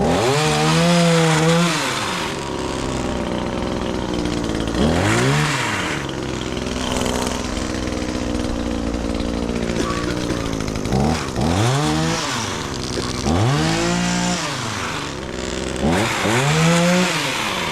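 Chainsaw engine revved up and back down about five times, with a steadier idle between the revs, while cutting tree limbs.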